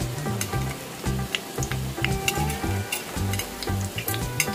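Egg-dipped mutton shami kababs shallow-frying in hot oil in a flat pan, sizzling with scattered sharp crackles.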